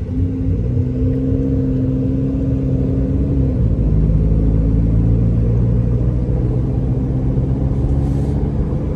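Car engine and road noise heard from inside the cabin while driving: a steady low drone whose engine note drops to a lower pitch about three and a half seconds in.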